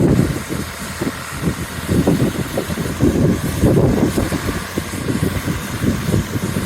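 Wind buffeting the microphone in irregular low gusts over the steady running of an engine.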